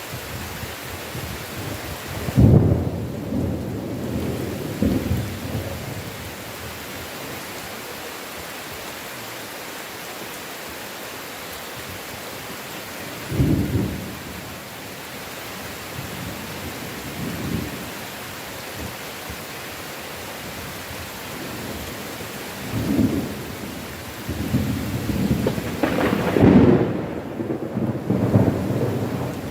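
Heavy rain falling steadily, with rolls of thunder rumbling through it: short rumbles about two seconds in, near the middle and a few seconds after, then a longer, louder roll building over the last few seconds.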